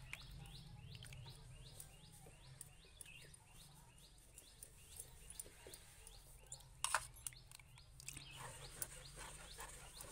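A small bird chirping faintly and repeatedly, about three quick chirps a second, with a single sharp knock about seven seconds in.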